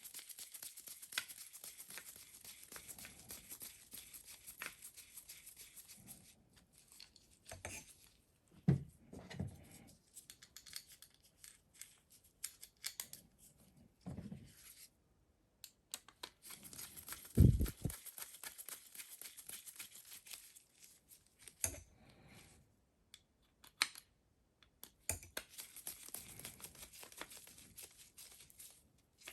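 Scratchy rasping of hand work on a car starter motor's parts, in stretches of several seconds, with scattered knocks of metal parts being handled; the loudest knock comes a little past the middle.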